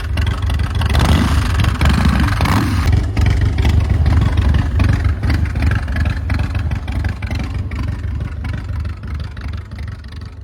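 Harley-Davidson Panhead V-twin engine of a custom chopper running with a deep, pulsing low rumble, briefly fuller about a second in, then fading away over the last few seconds.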